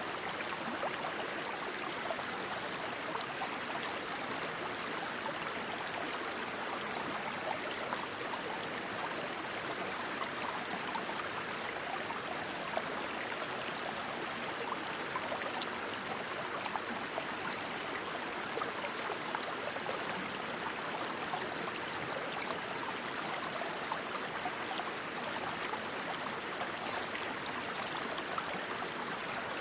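Rushing stream water flowing steadily, with short high chirps recurring every second or so above it and two brief high trills, about six seconds in and near the end.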